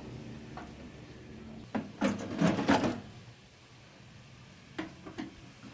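Clattering knocks of hard parts being handled, loudest in a burst between about two and three seconds in, over a steady low hum that stops about three seconds in; a couple of single clicks follow near the end.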